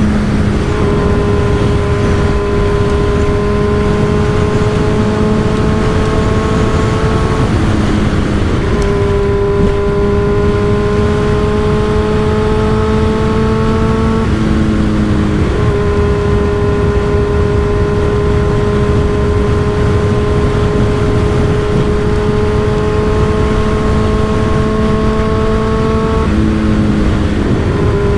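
Motorcycle with an M4 aftermarket exhaust running at steady road speed. The engine note climbs slowly and drops briefly three times, as the throttle is rolled off or a gear is changed. A heavy low rumble of wind on the microphone lies underneath.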